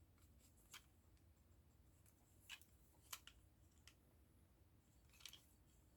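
Near silence broken by about five faint, short clicks of small plastic model-kit pieces being handled and pressed together.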